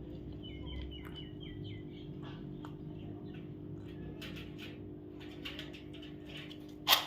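Baby parrot calling: short chirps that step in pitch at first, then scattered calls, becoming louder and harsher, with the loudest call right at the end. A steady low hum runs underneath.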